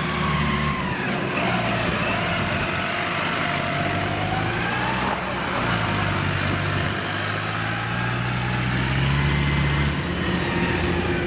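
Engine of a loaded rice-hauling tractor running steadily under load as it drives in, its pitch shifting a few times, with a wavering whine above the engine note.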